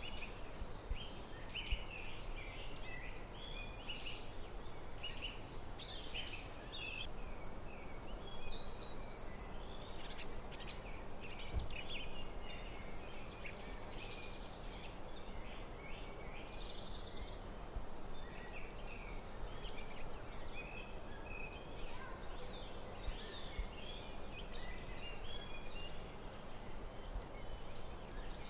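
Forest birds singing and calling, many short chirps and trills one after another, over a steady low background hiss.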